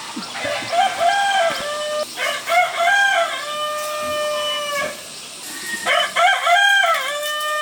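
A rooster crowing: a long, drawn-out crow with a wavering start and a held note, then a second crow starting about six seconds in.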